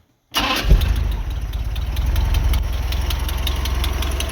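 1988 Bayliner Capri's 3.0-litre four-cylinder engine running steadily with a loud, rapid, regular tick, which the owner thinks is more likely a lifter than a loose valve. It cuts in abruptly a moment in.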